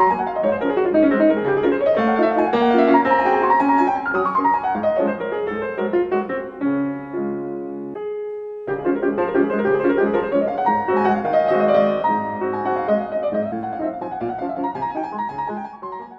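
Background piano music with rippling runs up and down the keyboard, a held chord near the middle, then fading out near the end.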